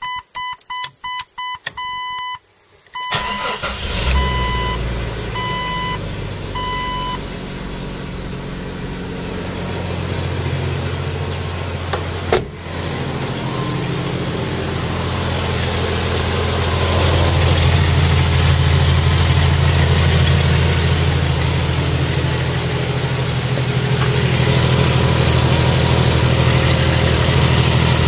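Dashboard warning chime beeping, then the Jeep Cherokee's 4.0-litre straight-six cranks and starts about three seconds in and settles into a steady idle, with a single sharp knock about twelve seconds in. The owner suspects the louder, tappety running comes from a leaking exhaust manifold.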